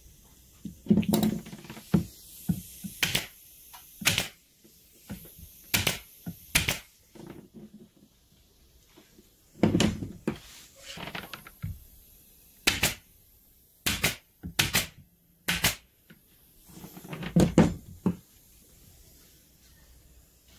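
Irregular sharp clicks and knocks, about a dozen spread unevenly, with a few softer rustling, handling-like stretches between them.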